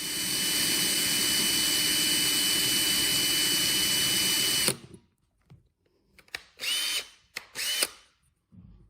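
Handheld electric power tool, such as a drill, running at a steady high whine for about five seconds and then stopping. It is followed by two short bursts, each spinning up quickly.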